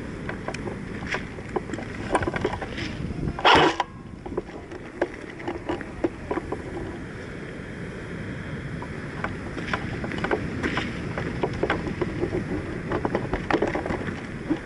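Wind and handling noise on a worn microphone, a steady low rumble with scattered light clicks and rustles, and one loud brief rustle or scrape about three and a half seconds in.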